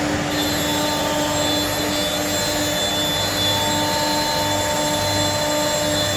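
CNC router spindle running steadily with a whine of several high tones over a pulsing hum, cutting 10 mm PVC sheet.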